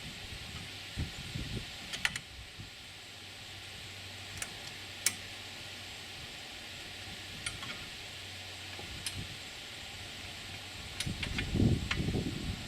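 Scattered sharp metal clicks and taps as a steel brace is fitted onto a homemade pickup-truck crane, over a steady hiss, with a burst of low rumbling near the end.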